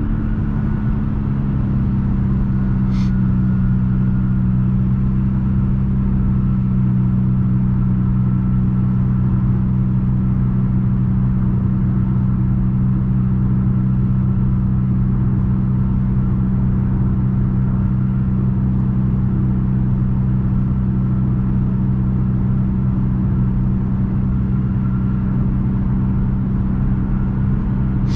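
Straight-piped 2020 Nissan Altima's exhaust droning steadily at a constant cruising speed, a low, even note with no revving.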